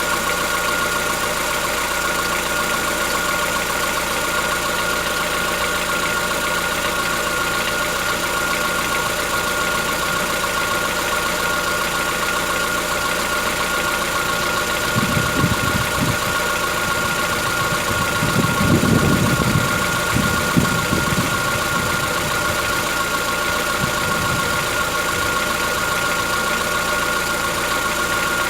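Chevrolet Onix 1.4 four-cylinder engine idling with a knocking, diesel-like clatter that the owner takes for tappet knock on a cold start, which the dealer calls characteristic of the car. A few low rumbles come and go about halfway through.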